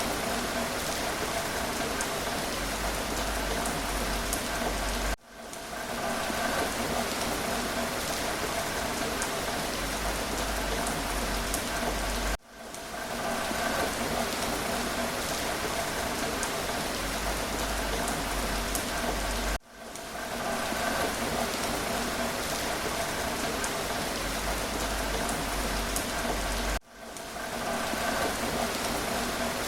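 Steady rain falling, an even hiss with faint individual drop ticks. About every seven seconds it cuts out suddenly and swells back in over a second or so, as a short recording repeats.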